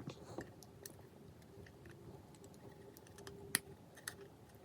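Faint scattered clicks and taps of small tools and parts being handled during iPhone 5s reassembly, with one sharper click about three and a half seconds in.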